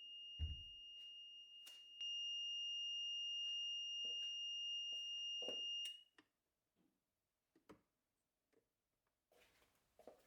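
A steady high-pitched tone, louder from about two seconds in, that cuts off about six seconds in, with scattered light clicks and knocks.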